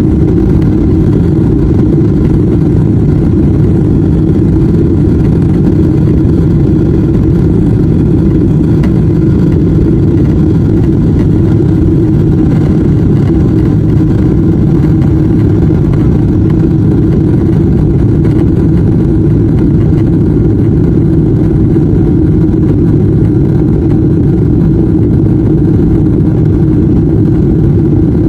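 Boeing 777-300ER's GE90-115B jet engines at takeoff power: a loud, steady, deep roar with faint steady tones above it that does not rise or fall.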